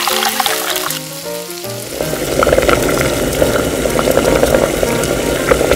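Ground beef and beef stock bubbling and sizzling hard in a miniature stainless wok over a burner: a dense crackle that sets in about two seconds in. Light background music plays, clearest before the crackle starts.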